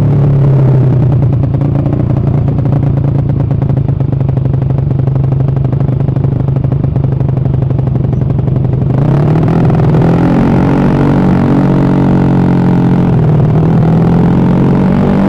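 Honda BeAT carburetted scooter's single-cylinder engine, newly rebuilt, running steadily with a fast even beat, its pitch rising slightly about nine seconds in as it is given a little throttle.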